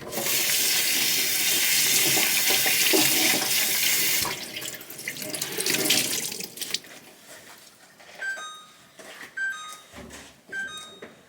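Kitchen tap running hard into a sink for about four seconds, then tailing off. Near the end come a few short, ringing knocks, like hard items being set down.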